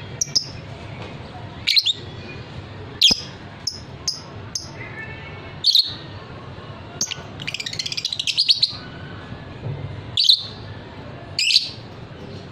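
Lovebird giving short, sharp, high chirps at irregular intervals, with a rapid chattering run of chirps lasting about a second, a little past the middle.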